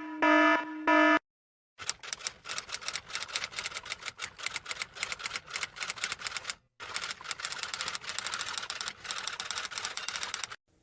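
Rapid typing sound effect: a long run of fast key clicks, with a short pause about two-thirds of the way through. It is preceded in the first second by two pitched electronic beeps.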